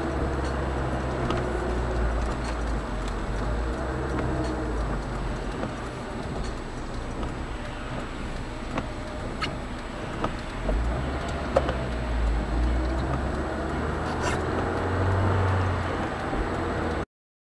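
A moving car's engine and road noise, a steady low rumble with a few small clicks and knocks. It cuts off abruptly near the end.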